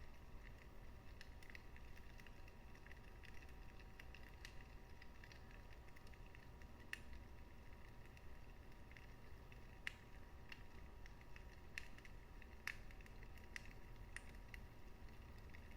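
Wood fire in a fireplace crackling faintly: irregular small ticks and a few sharper pops over a soft low rumble of the flames.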